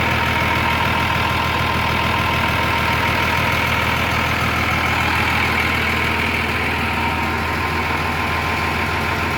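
Massey Ferguson 6170 tractor's six-cylinder diesel engine running steadily at an even speed, a low hum with a steady high whine over it.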